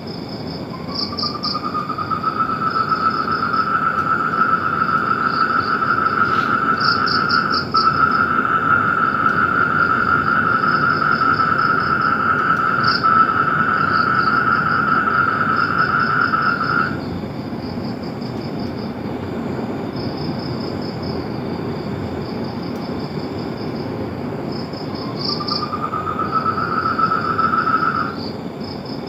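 Outdoor animal chorus: a long, steady high trill that begins about a second in, runs for about sixteen seconds and returns briefly near the end, over quick pulsed chirping like crickets or other insects and a steady hiss.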